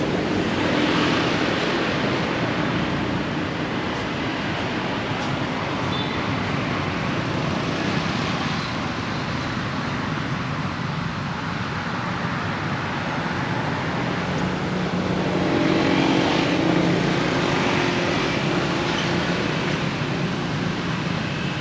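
Road traffic: a steady wash of vehicle noise, swelling as a vehicle passes about a second in and again, with a low engine hum, from about fifteen seconds in.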